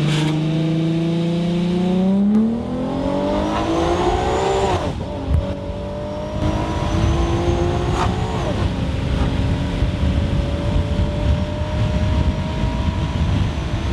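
Supercharged 3.7-litre VQ37VHR V6 of an Infiniti Q50 pulling hard from inside the cabin. The revs climb, drop sharply at an upshift about five seconds in and again about eight seconds in, then climb slowly through the next gear, with a thin high whine rising alongside the revs.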